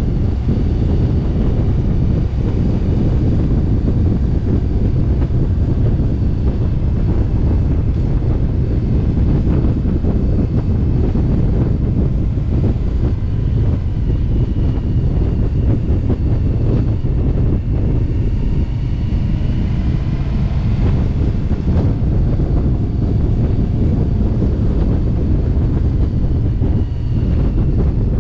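Indian motorcycle's V-twin engine running at a steady cruise under wind noise on the microphone, a constant low roar that dips briefly near the end.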